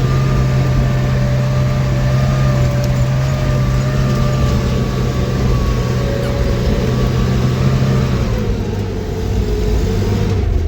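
Vehicle engine running steadily under load, its pitch dropping about eight and a half seconds in as it slows.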